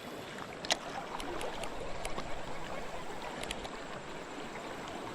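Steady rush of creek water flowing over a shallow shoal, with a few sharp clicks, the loudest about a second in.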